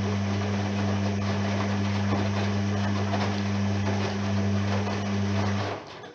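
Privileg 3020 washing machine running with a steady mains hum and rushing water noise, which cuts off suddenly shortly before the end.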